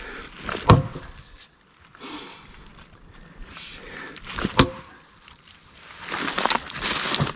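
Splitting axe chopping into a round of black cherry wood: two sharp strikes about four seconds apart. Near the end comes a longer spell of cracking and rustling, closing on a third knock.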